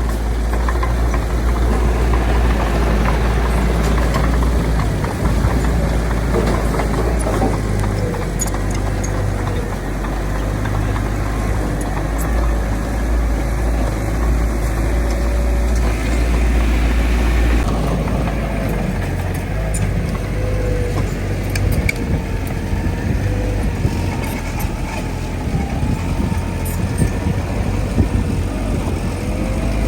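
Heavy diesel engine of a bulldozer running steadily with a deep rumble and a wavering whine, as the machine works soil. About eighteen seconds in, the sound changes abruptly.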